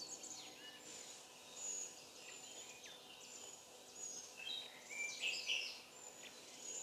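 Faint birdsong: scattered short, high chirps and whistles, a little busier about five seconds in.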